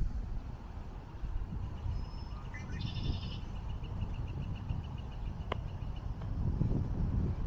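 A songbird gives a short buzzy call and then a fast, even trill, over a steady low rumble. A single sharp click comes about two-thirds of the way in.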